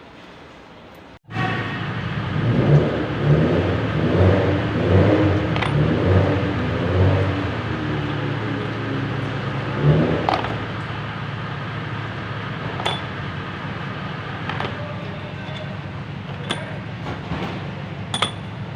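A vehicle engine running. The sound begins abruptly about a second in, its pitch wavers for several seconds, then it settles to a steady hum, with a few light metallic clinks near the end.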